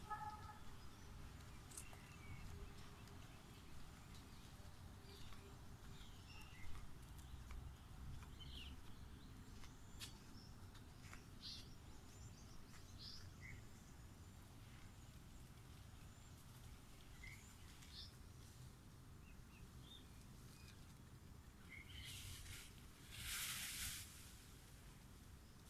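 Faint outdoor ambience with scattered short bird chirps over a low rumble, and a brief hissing burst near the end.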